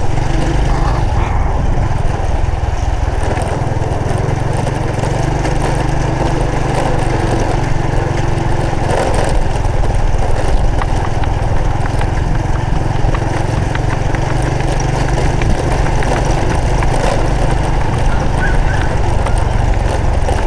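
Honda Supra X 125 FI's single-cylinder four-stroke engine running steadily while the motorcycle is ridden, without clear revving or gear changes.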